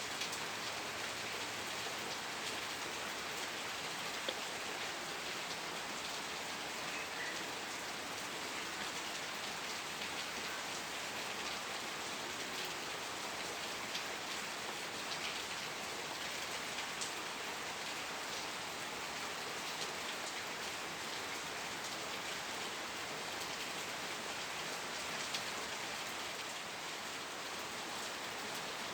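Steady rain falling on a surface, an even hiss of many small drop ticks.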